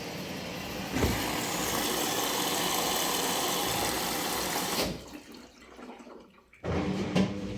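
Arçelik 9100DMX washing machine running with a steady rush of water, which cuts off sharply about five seconds in; a shorter burst of the same sound starts near the end.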